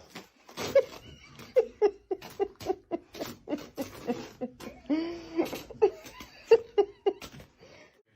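A dog giving a rapid string of short, pitched vocal sounds, about two or three a second, with one longer drawn-out sound about five seconds in.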